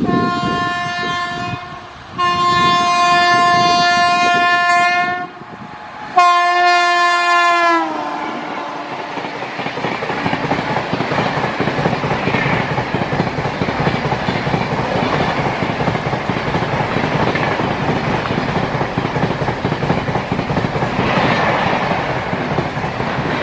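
12324 Barmer–Howrah Superfast Express passing at about 130 km/h. The locomotive's horn sounds three blasts, the middle one long, and the last drops in pitch as the engine goes by. Then the coaches rush past with a steady rumble and clickety-clack of wheels on rail joints.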